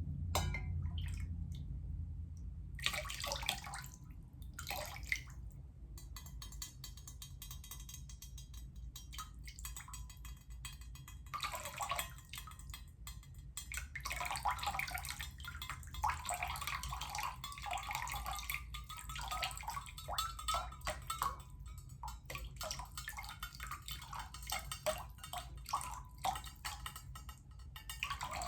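Water dripping, trickling and splashing, being handled to make sounds. A few scattered drips at first, then a dense run of small splashes and trickles from about three seconds in.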